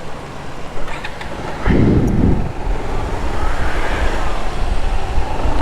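Wind buffeting the microphone over motorcycle and road traffic noise while riding on wet roads, with a louder low rush about two seconds in.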